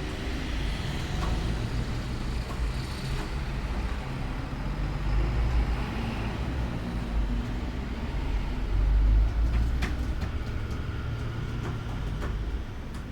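Low, uneven outdoor rumble that swells and fades, with a few faint clicks near the end.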